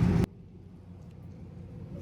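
Dodge Charger R/T's V8 engine and road noise heard from inside the car, cut off abruptly with a click about a quarter second in; only a faint low hum remains after it.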